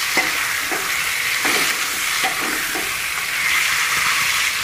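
Marinated chicken pieces sizzling in hot oil with fried onions in a large kadai, while a metal spatula stirs and scrapes the pan in several short strokes.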